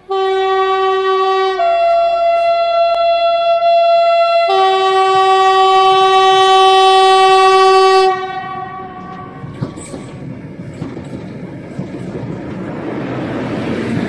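Electric locomotive's two-tone horn, high, then low, then a long high note for several seconds, followed by the rumble of the train rolling past on the rails, growing toward the end.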